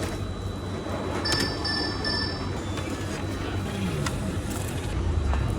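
Steady background ambience with a high electronic beep sounding twice in quick succession about a second in, then a few faint clicks.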